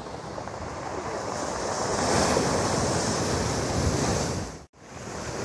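Storm surf breaking on a pebble beach: a steady rush of water that swells to a loud crash and wash about two seconds in. The sound cuts out suddenly for an instant near the end.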